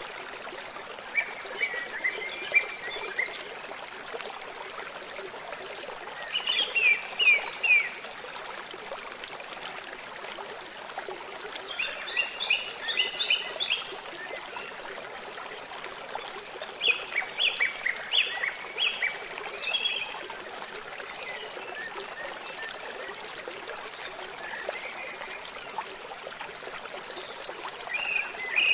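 Steady running water of a small stream, with groups of quick, high chirping animal calls every few seconds.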